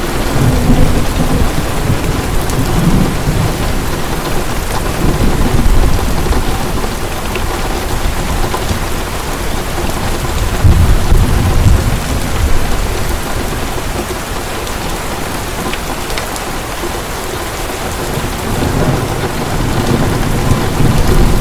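Heavy rain falling steadily, with low rolls of thunder swelling up several times: near the start, around the middle and near the end.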